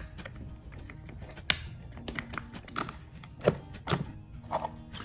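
Small toy train car, a postwar Lionel 50 gang car, running on the track, making irregular clicks and knocks about once or twice a second over a faint hum.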